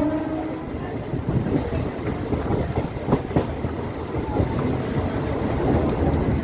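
MEMU electric train running, heard from an open coach doorway: a train horn stops about half a second in. Wheels then rumble and clack over the rail joints, with a cluster of sharp knocks about three seconds in.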